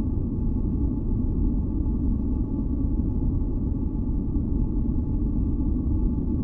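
Steady, deep masking noise, heavy in the low end and unchanging, with a few faint steady tones above it.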